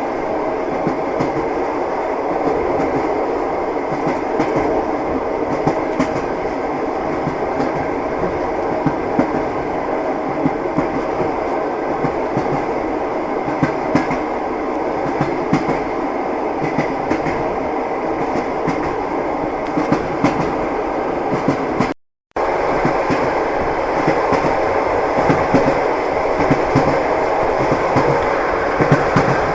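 Passenger train running at speed, heard from inside the carriage: a steady rumble with the wheels knocking over the rail joints. The sound cuts out for a moment about two-thirds of the way through.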